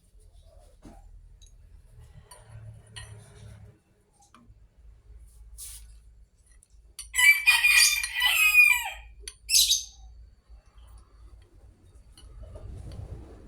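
A rooster crowing loudly about seven seconds in, a call of around two seconds, followed by a shorter, higher call.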